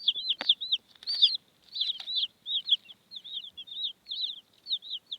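Young chicks peeping continuously, a rapid string of short, high, arched peeps, about three or four a second. A couple of sharp taps come in the first second and a half.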